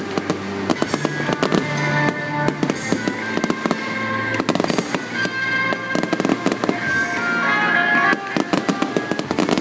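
Fireworks going off in quick succession, sharp bangs and crackles that come thickest in the last couple of seconds, over music.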